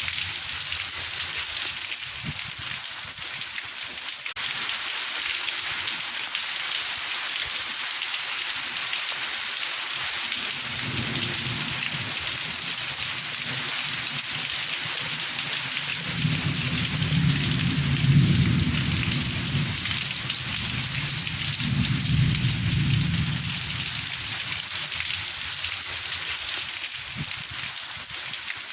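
Heavy rain falling steadily. Low rumbles come and go through the middle and second half, the strongest about two-thirds of the way through.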